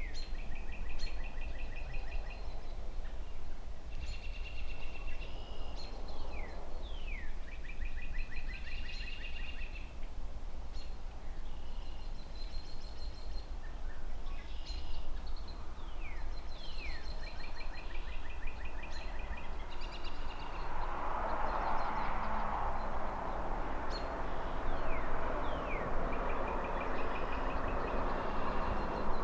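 A songbird repeating the same song about every four seconds, a couple of quick falling notes followed by a trill, over a steady low rumble of distant city traffic. About two-thirds of the way in, a rushing noise swells up and stays to the end.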